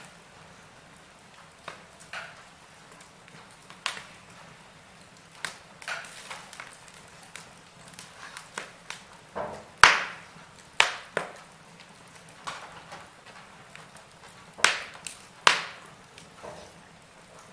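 Wood fire crackling, with irregular sharp pops and snaps that are loudest about ten seconds in and again a few seconds before the end.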